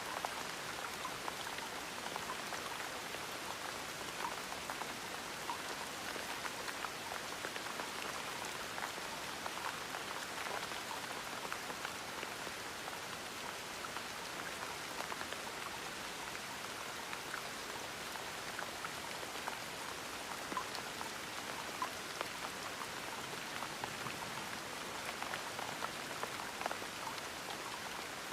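Gentle steady rain, a continuous patter with scattered individual drops ticking on a surface.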